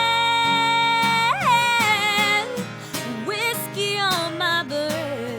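A singer holds one long note on the last word of a country song, then slides into wavering runs of notes over acoustic guitar.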